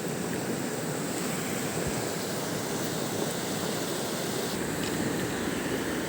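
Churning mountain river: a steady rush of water, with a faint low rumble added about four and a half seconds in.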